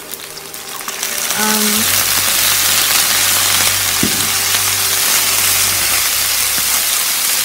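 Chinese cooking wine splashed into a hot pan of frying chicken, the sizzle swelling about a second in and then holding steady as the pieces are stirred with a spatula. One sharp click about four seconds in.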